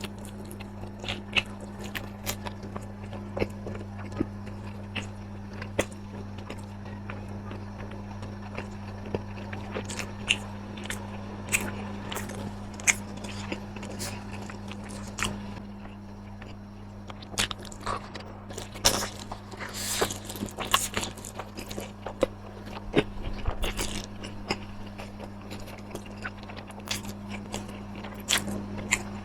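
Close-miked eating: crunching bites and chewing of crisp food, sharp crackles coming thick and fast in the second half, over a steady low hum.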